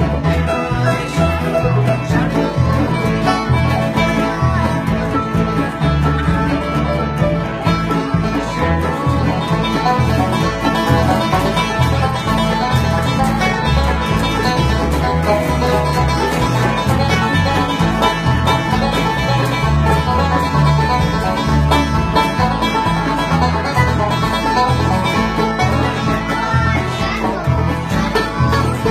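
Bluegrass instrumental with fast banjo and guitar picking over a steady pulsing bass.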